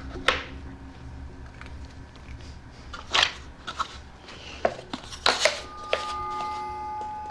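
Hard objects, wood pieces and tools, being handled and set down on a work surface: about six sharp knocks and clacks, two close together a little past the middle, over a faint steady tone.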